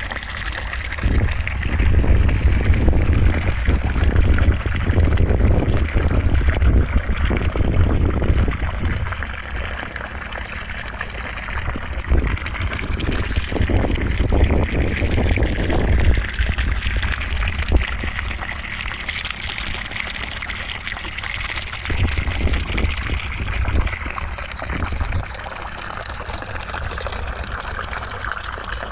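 Steady rushing noise of running water, with a low rumble underneath that swells and eases a few times.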